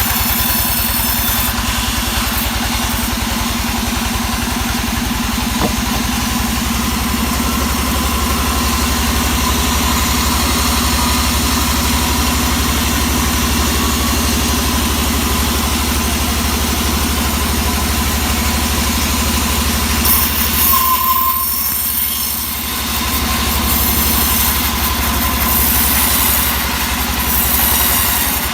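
Engine running steadily at a constant speed. About two-thirds of the way through, a higher hiss joins it, and the level dips briefly soon after.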